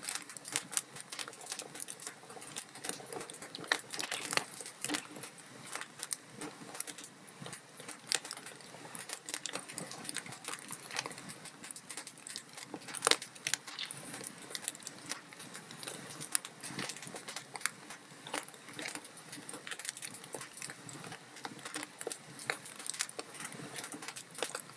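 Wood fire crackling: a steady stream of irregular small pops and snaps, with a sharper pop about halfway through.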